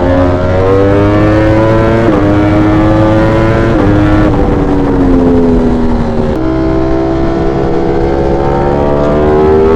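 V4 sport motorcycle engine under way. Its pitch steps down at upshifts about two and four seconds in, sags as the bike slows, then climbs again under acceleration near the end, over a low rumble of wind and road noise.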